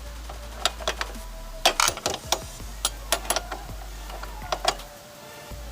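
A 12 mm wrench clinking on the nut and washer of an exhaust mounting bolt while it is held and tightened: a series of irregular sharp metal clicks.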